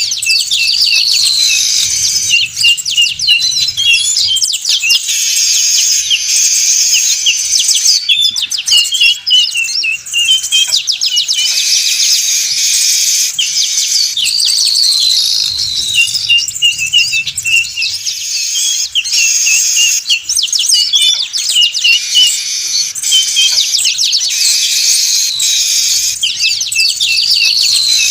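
Weaver birds (manyar) calling in a dense, noisy chorus of rapid chips, buzzy trills and short whistles that runs on without a break.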